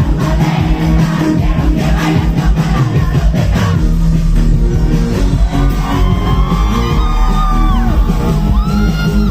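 Loud live band music with a steady drum beat; from about five and a half seconds in, a voice sings long, wavering notes over it.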